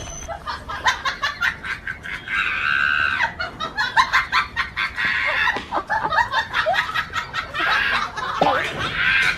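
Rooster and chickens clucking and calling: many short, sharp calls, with two longer pitched calls, about two and a half seconds in and again near the end.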